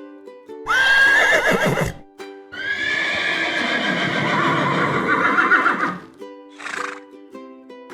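Horse whinnying twice over background music: a short neigh that rises and wavers about a second in, then a longer one lasting about three seconds.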